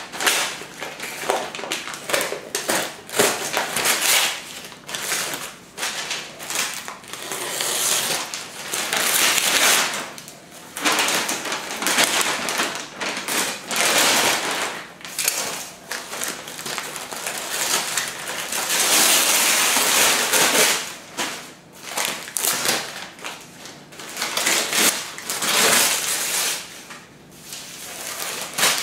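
Packing material being pulled off and crumpled while unwrapping a boxed beehive kit: irregular rustling and crackling in uneven bursts, with a few knocks in between.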